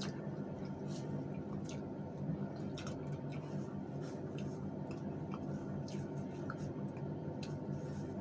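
Mouth sounds of people eating by hand: wet chewing and lip smacks in short, irregular clicks, over a steady low hum.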